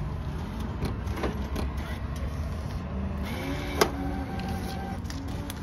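Steady low rumble of passing road traffic, with scattered clicks, one sharp tap just under four seconds in, and a steady pitched tone lasting about two seconds in the second half.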